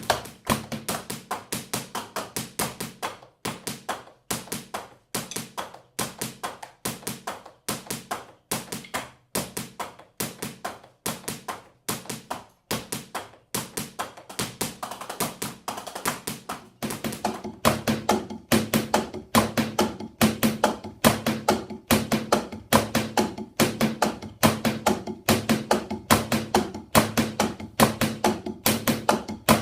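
Unamplified stick strikes on a Roland electronic drum kit's mesh pads and rubber cymbal pads, tapped out in a steady rhythm of several hits a second. From about halfway through, deeper thuds join in, giving the beat more weight.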